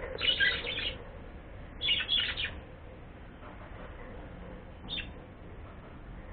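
A pet bird calling: a cluster of harsh, scratchy calls right at the start, another about two seconds in, and one brief call about five seconds in.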